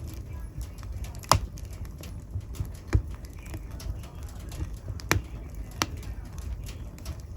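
Wood fire burning in a fireplace: irregular crackles and sharp pops of burning logs, over a low rumble of the flames. The loudest pop comes about a second in, with several more spread through.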